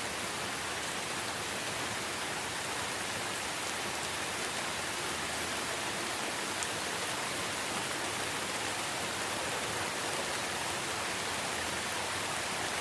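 Steady, even rain-like hiss with no rise or fall, and one faint tick about six and a half seconds in.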